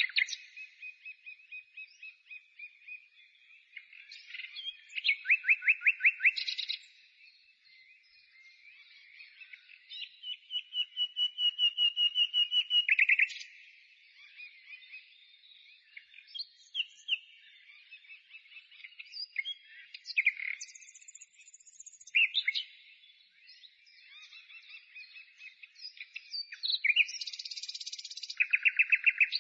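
A songbird singing in phrases of fast trills, chirps and whistles, with short pauses between phrases.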